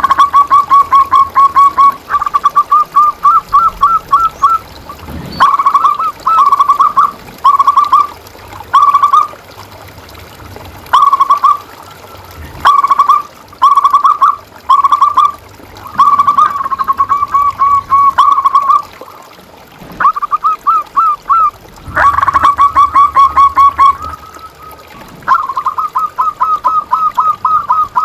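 Zebra dove (perkutut) calling: repeated runs of rapid, staccato cooing notes, each run lasting from half a second to about two seconds, with short pauses between them.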